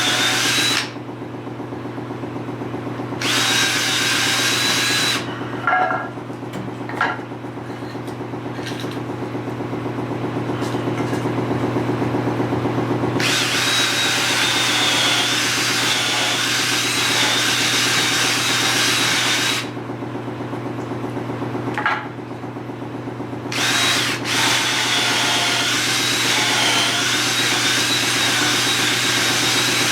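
Power drill pre-drilling pilot holes in 2x2 lumber: the motor runs steadily, with several long stretches where the bit cuts into the wood.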